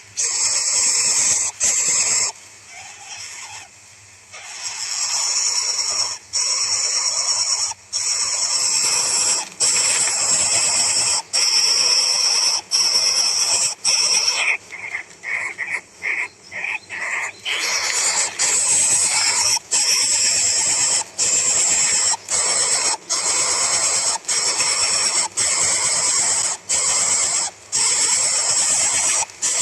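An animal squealing: a high-pitched, nearly continuous squeal broken by short gaps every second or so, dropping away briefly a couple of seconds in.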